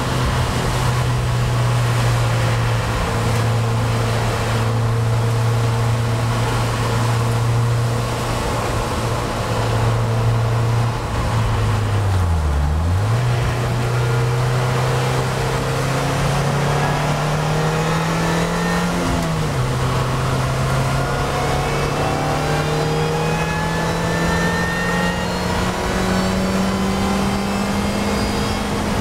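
Vauxhall VX220's engine running under power at a fairly steady pitch. About twelve seconds in the note dips sharply for a moment before picking up again. It climbs, drops suddenly around nineteen seconds, then rises slowly again.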